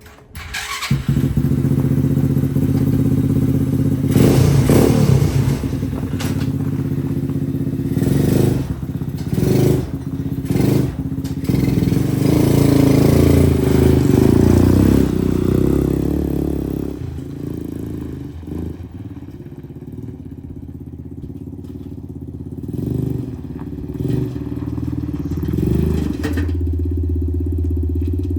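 The small engine of a homemade full-suspension lawnmower runs and revs up and down as it is driven, rising in pitch near the end. Knocks and clatter from the machine come through on top.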